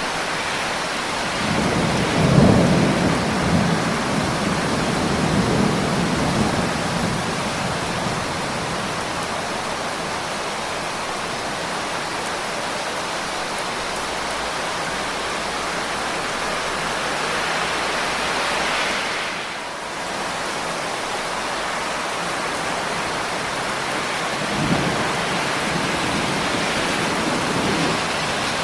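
Steady heavy rain with rolling thunder: a long low rumble swells up about two seconds in and fades over several seconds, and a second, softer rumble comes near the end.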